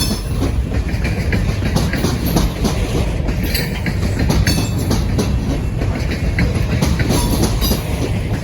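Ballast train rolling past at low speed: a steady rail rumble with wheels clicking and clanking over the rail joints.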